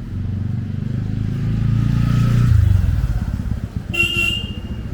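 A motorcycle engine passes close by, growing louder toward the middle and then fading. Near the end a short, high-pitched horn beep sounds.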